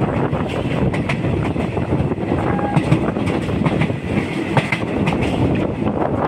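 A train running on the rails, heard from on board: a steady rumble of wheels on track with uneven clicks from the rail joints.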